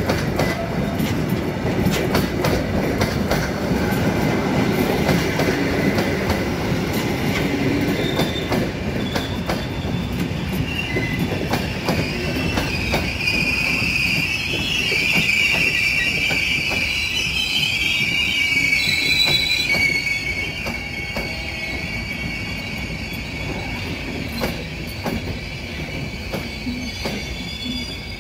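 A train running past, its wheels clicking over rail joints, with a high wheel squeal setting in about halfway through. The rumble dies down over the last several seconds.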